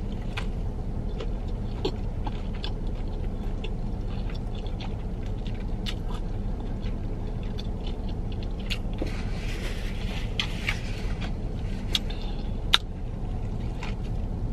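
Close-up chewing of a crispy fried chicken sandwich with pickles: a bite, then moist chewing with scattered small crunches and mouth clicks, a crunchier stretch past the middle and one sharp click near the end. A steady low rumble runs underneath.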